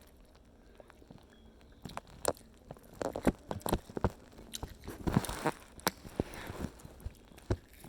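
A person chewing and biting into spicy red chicken: scattered short, irregular mouth clicks and smacks, starting about two seconds in.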